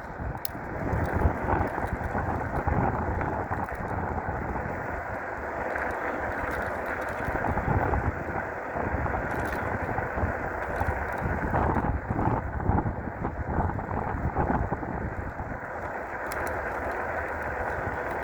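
Wind rumbling and buffeting over the microphone while riding a fat-tire electric bike along a road, with tyre and road noise underneath, rising and falling in gusts.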